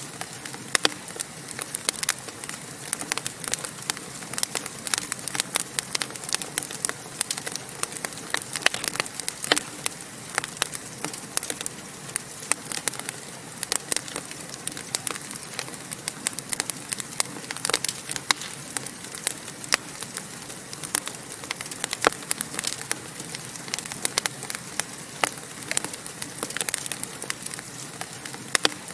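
Wood fire crackling in a fireplace: a steady hiss of flames with many sharp, irregular pops and snaps.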